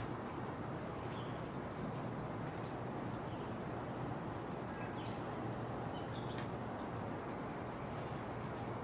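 Faint, short chirps of small birds over a steady background hiss. A short, very high tick repeats about every second and a half.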